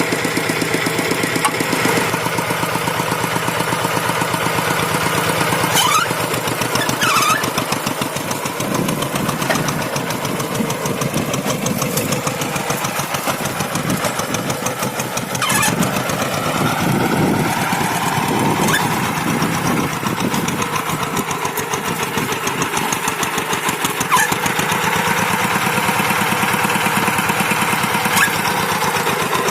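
Rice-field tractor engine running steadily while pulling a moldboard plow, its note wavering in the middle as the work goes on.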